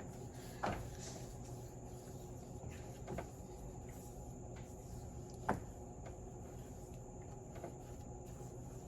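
Three sharp, light knocks and clicks of metal parts being handled as a steering box piston with its Teflon ring is worked down into the housing, over a low steady hum.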